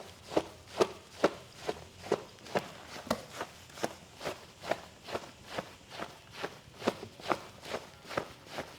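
Rhythmic percussive massage: hands striking the body in an even beat, a little over two slaps a second.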